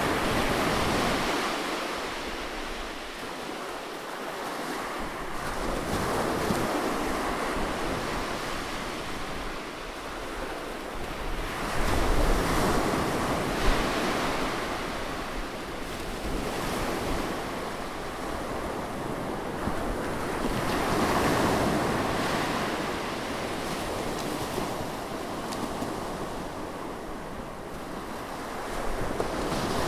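Ocean waves breaking and washing onto the shore: a continuous rush of surf that swells and falls back in surges every several seconds.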